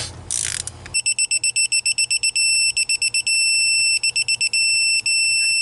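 A ratchet clicks for about a second. Then a digital torque wrench beeps while a cylinder head bolt is tightened: quick high beeps that run together into a steady tone several times, the signal that the set torque has been reached.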